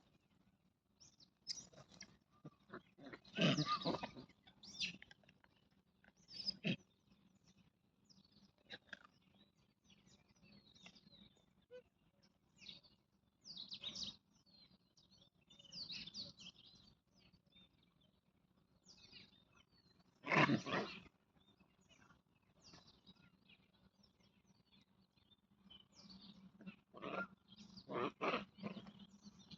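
Wild animal calls and cries coming in short, scattered bouts, the loudest about three seconds in, near the middle and near the end, with small bird chirps between.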